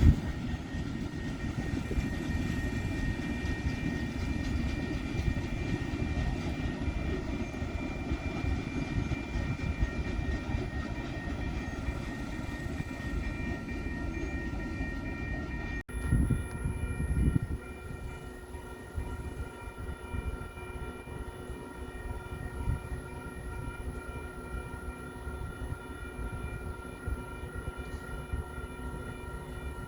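A train rolling past on the rails, a steady low rumble with faint steady tones above it. The sound breaks off suddenly about halfway through, then goes on a little quieter.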